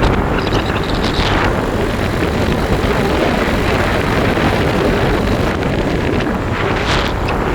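Steady wind rushing over the microphone on a moving motorbike, with the bike's road and engine noise beneath it.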